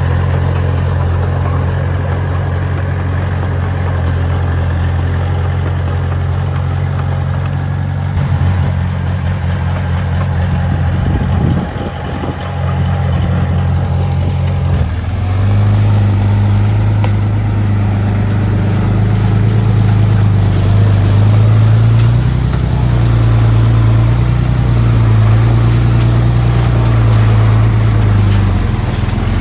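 A construction machine's diesel engine runs steadily. About halfway through its pitch rises and wavers up and down, as it is worked harder.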